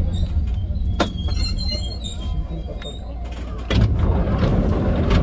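Enoshima Electric Railway 300-series electric train running: a steady low rumble with sharp knocks from the wheels about a second in, near four seconds and at the end, and a brief high squeal of the wheels soon after the first knock.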